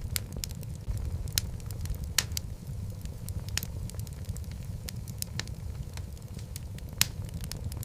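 Wood logs burning in a fireplace: a steady low rumble of flame with irregular sharp crackles and pops, a few louder snaps among them.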